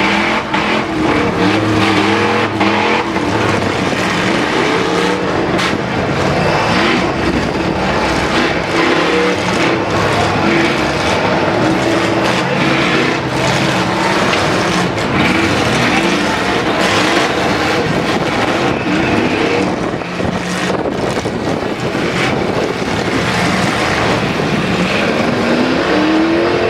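Several demolition derby trucks' engines running and revving hard, rising and falling in pitch, with frequent knocks and bangs of metal as the trucks hit each other.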